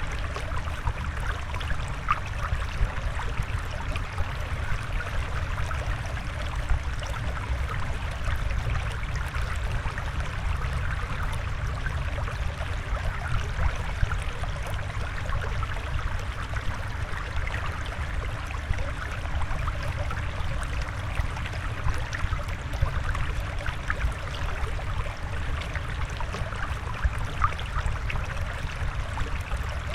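Flowing water trickling and gurgling steadily, with many small splashes.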